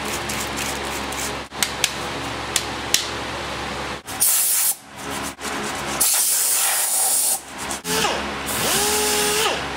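Orbital sander on body filler, run in several short bursts of harsh hissing noise, the later bursts with a whine that rises as the sander spins up and then holds.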